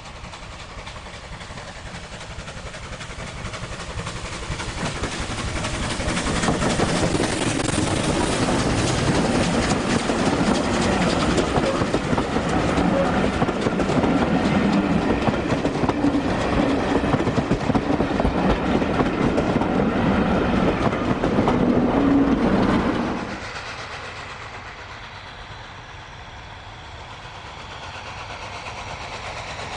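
A passing train on a heritage railway line: rumble and wheel clatter build over several seconds and stay loud for about fifteen seconds. The sound then drops off sharply, leaving a quieter rumble that swells slightly near the end.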